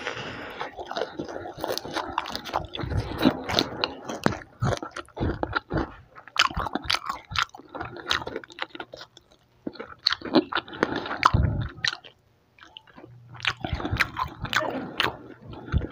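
Close-miked chewing of crispy fried chicken and rice, with crunches and wet mouth smacks coming thick and irregular, broken by two short pauses in the middle.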